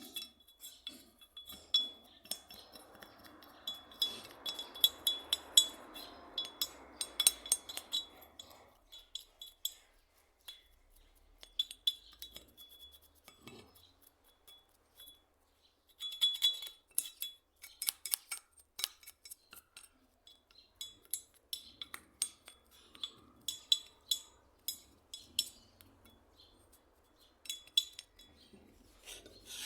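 Metal parts of a hand plane clinking and tapping against each other: many small, sharp knocks, each ringing briefly. From about 3 to 9 seconds in there is also a stretch of rubbing or scraping.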